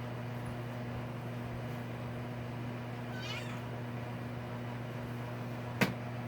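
A kitten gives one short, high meow about three seconds in, over a steady low hum; a sharp click sounds near the end.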